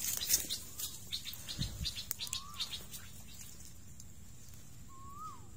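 A bird calling twice, each call a short whistled note that rises and then drops sharply, with light crackling and snapping of vegetation during the first few seconds.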